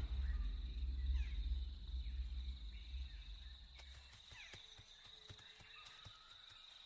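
Night-time insect ambience: a steady, thin, high trill like a cricket, with a few short chirps and scattered small clicks. A low rumble fades out over the first few seconds.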